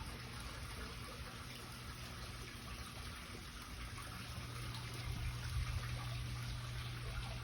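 Water trickling steadily in a backyard pool area, over a steady low hum.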